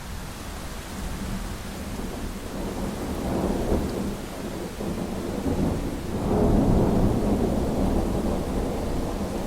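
Thunderstorm: steady rain with rolling thunder, one rumble swelling around three to four seconds in and a louder one building about six seconds in.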